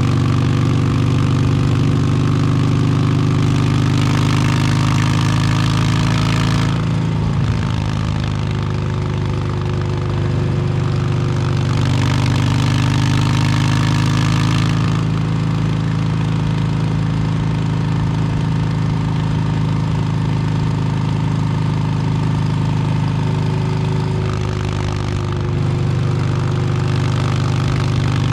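Harley-Davidson Milwaukee-Eight 117 V-twin running through an S&S Superstreet 2-into-1 exhaust while riding. The note eases off and picks up again about seven seconds in, and again near the end.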